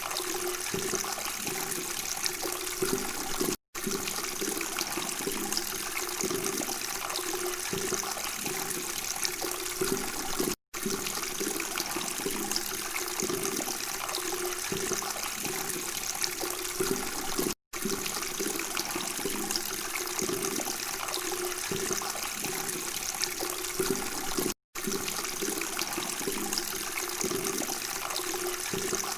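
Flowing water burbling and trickling steadily, with the sound cutting out for an instant four times, about every seven seconds.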